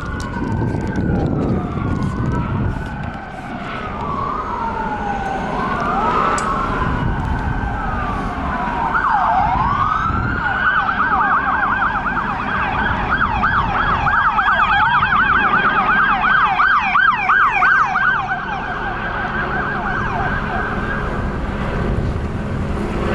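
Police car siren sounding in slow rising and falling wails, switching about ten seconds in to a fast yelp that stops near the end, with vehicle engine and road noise underneath.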